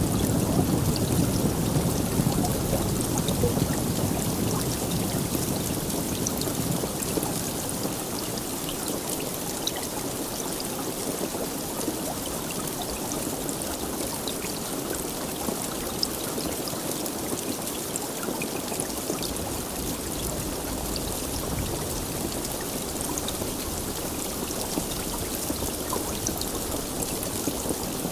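Steady heavy rainfall, a dense even hiss with scattered individual drop ticks. A low rumble fades away over the first few seconds.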